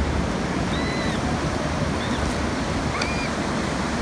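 Ocean surf washing steadily, with wind buffeting the microphone. A few short, faint high calls sound over it about one, two and three seconds in.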